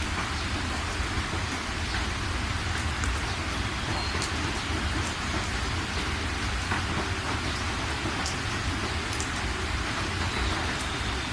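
Steady rain falling, a constant even hiss with individual drops ticking sharply on a surface.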